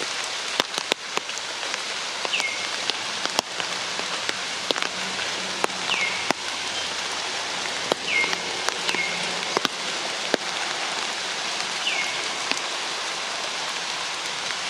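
Steady rain falling, with sharp drops hitting close surfaces. A few short high chirps, each falling in pitch, sound now and then.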